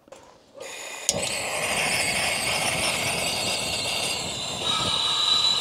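Portable camping gas stove burner running with a steady hiss, starting about a second in; a high whistling tone joins near the end.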